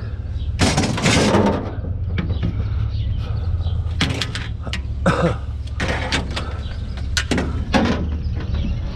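A vehicle engine running steadily at idle, with a series of sharp knocks and clanks over it. A short noisy clatter comes about a second in, then single knocks every second or so.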